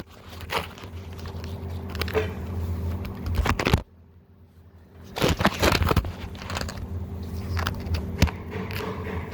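Scattered knocks, scrapes and rustles of hands and tools at work on an engine, over a steady low hum.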